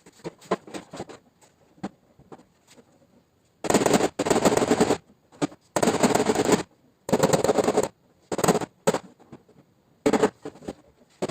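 Rapid tapping on the sheet metal of a car's tailgate during paintless dent repair, in bursts of about a second with short pauses between. This is the tap-down stage that levels the panel.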